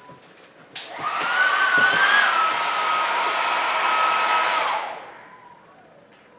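Handheld hair dryer switched on with a click about a second in. It blows with a steady airy hiss and a whine for about four seconds, then is switched off and runs down.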